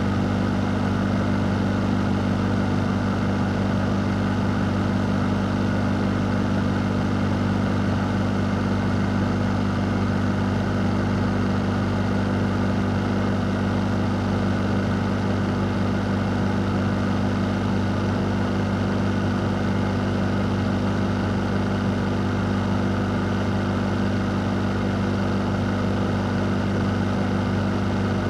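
A fan running steadily: an even rush of air over a constant low hum, with no change in speed.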